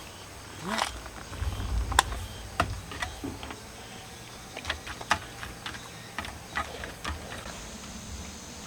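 Light clicks and taps of utensils and tableware at a meal, scattered irregularly, with a few dull low bumps; the sharpest click comes about two seconds in.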